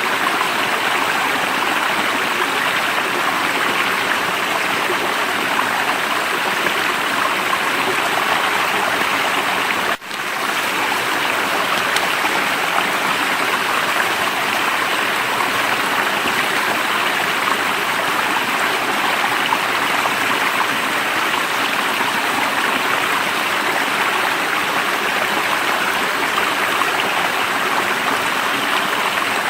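Flowing water of a stream, a steady rush, with a brief dip in level about a third of the way in.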